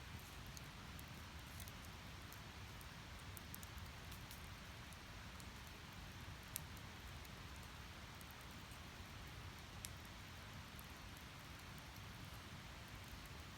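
Firewood burning in a Snow Peak Takibidai S steel fire pit: a faint steady hiss with scattered small crackles, and a sharper pop about six and a half seconds in and another near ten seconds.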